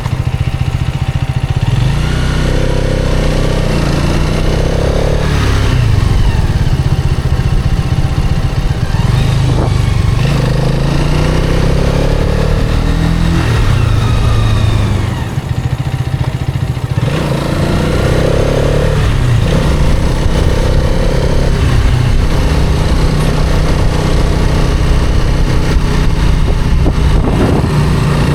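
Hero Karizma XMR's 210 cc single-cylinder engine running under way, its pitch rising several times as the bike accelerates.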